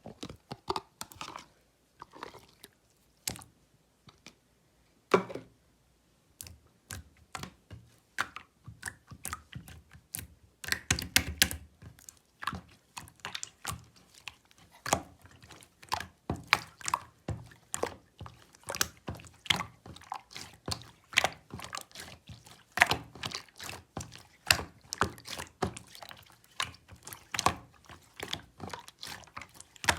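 Clear slime being squished and worked by hand, making a run of wet, sticky clicks and pops, scattered at first and coming thick and fast from about ten seconds in.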